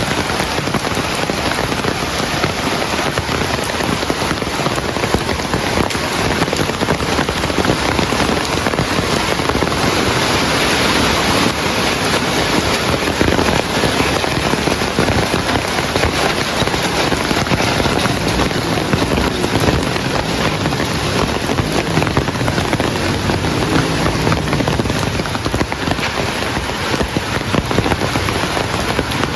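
Heavy rain falling steadily on surfaces, a dense even hiss full of fine crackling drop impacts.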